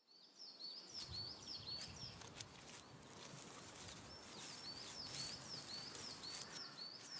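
A small bird calling faintly in quick runs of short, high chirps, about four a second, over a steady outdoor hiss. A first run fills the first two seconds and a second starts about four seconds in.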